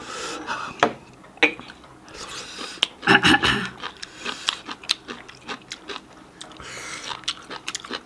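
People chewing and biting food with many short wet clicks and smacks, and a louder mouth sound about three seconds in.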